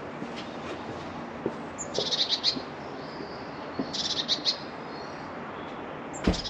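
Small garden bird calling in short quick runs of high repeated notes, twice, with a third run starting near the end. A low thump comes just before the last run.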